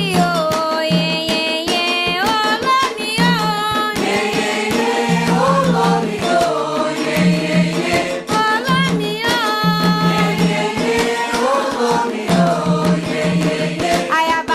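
Candomblé ritual music: voices singing a Yoruba chant for Xangô over steadily beaten hand drums.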